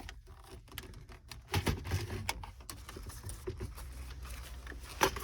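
Irregular light plastic clicks and rattles of dashboard trim and wiring connectors being handled and unplugged, with a few louder clacks about a third of the way in and near the end.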